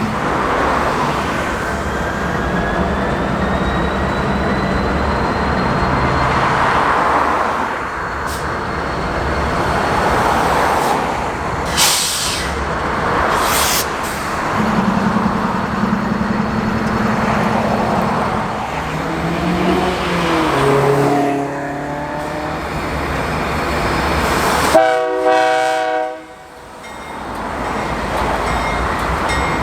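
BNSF freight train's diesel locomotives pulling away from a stop, a loud steady engine rumble, with a short horn blast about 25 seconds in.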